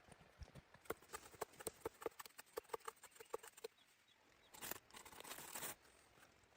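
A quick run of faint, sharp clicks and knocks, about a dozen in under three seconds, then a rushing noise about a second long near the end.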